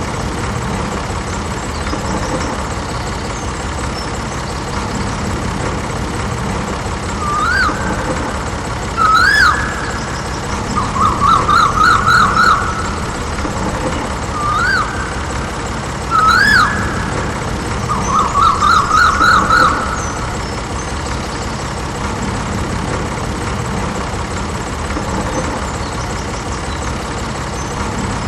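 A steady motor or engine running throughout. In the middle come two rounds of siren-like whoops, each a couple of short rising-and-falling tones followed by a quick warbling trill.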